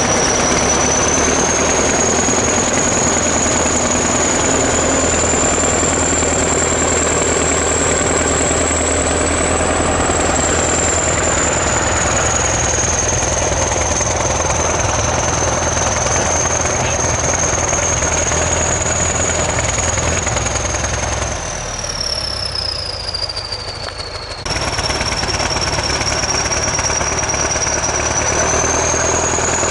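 ChTZ T-170 bulldozer's diesel engine running loudly with a high whine that drifts up and down in pitch. About 22 s in the engine eases off and the whine slides down, then the full sound and whine come back abruptly a couple of seconds later.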